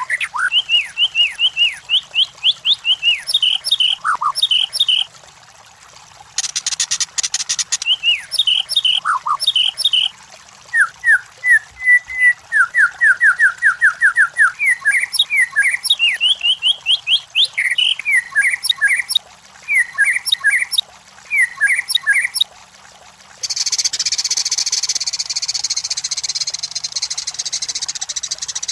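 White-rumped shama (murai batu) song: fast, varied whistled phrases and rapid trills repeated in bursts with short gaps. A harsh, hissing rasp breaks in briefly about seven seconds in and again for the last five seconds.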